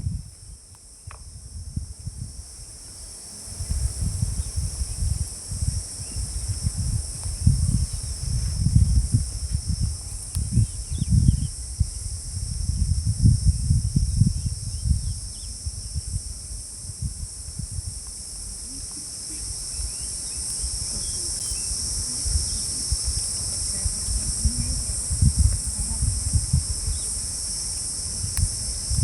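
A steady, high-pitched insect chorus drones throughout. Uneven low rumbling comes and goes beneath it from a few seconds in.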